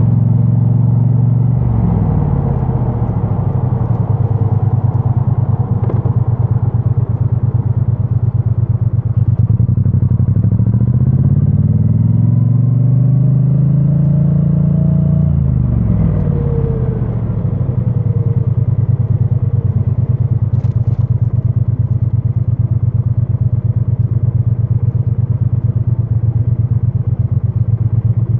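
2022 Triumph Bonneville T100's 900 cc parallel-twin engine through its stock exhaust, heard through a microphone stuffed in a backpack. The revs drop near the start, climb for a few seconds in the middle, fall again, and then the engine runs steadily for the last ten seconds or so.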